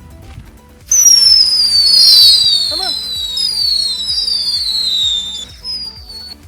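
Musical cracker firework going off about a second in: several shrill whistles at once, each falling in pitch, overlapping for about four and a half seconds before dying out.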